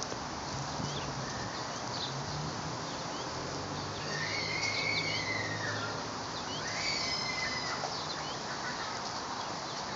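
Birds chirping outdoors: scattered short high chirps, with two longer arched whistled calls around the middle, over steady background hiss and a faint low hum.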